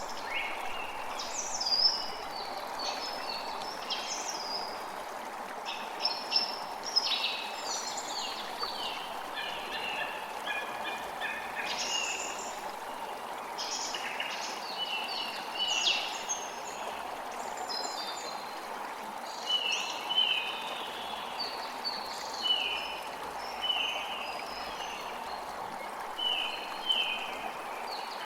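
Water rushing steadily, with several birds chirping and singing over it. In the second half one bird repeats a short call about once a second.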